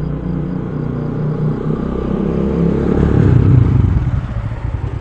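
Motorcycle engine running. It grows louder to a peak about three and a half seconds in, then eases off.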